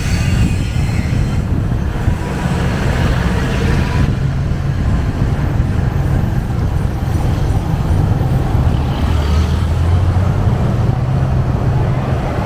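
Motorbike engine running steadily while riding, a continuous low rumble under wind and road noise.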